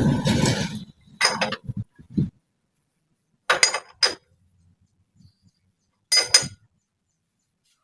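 Metal pieces clinking against each other in three short clusters a couple of seconds apart, after a rough scraping noise that stops about a second in.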